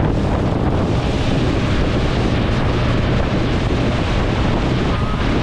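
Wind buffeting the microphone on a moving motorboat, over the steady running of the boat and water rushing past the hull.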